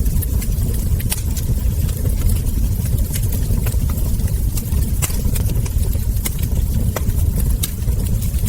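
Wood fire crackling, with frequent small sharp pops scattered irregularly over a steady low rumble.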